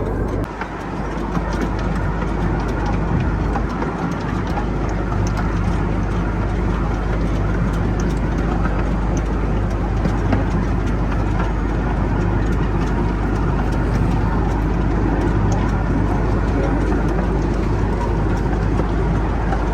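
Passenger ride train running along its track, heard from on board: a steady low engine hum under an even rolling rumble, with faint scattered clicks.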